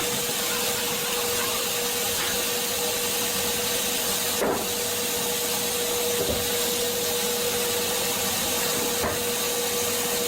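Woodworking machinery running steadily with a constant whine, with a couple of brief knocks, one about halfway through and one near the end.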